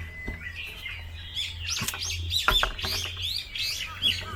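Small songbirds chirping, many quick overlapping chirps that grow busier about a second in, over a low steady hum.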